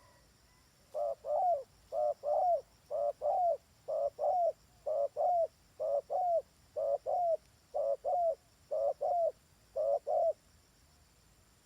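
Dove cooing: a two-note coo repeated about once a second, ten times, then it stops.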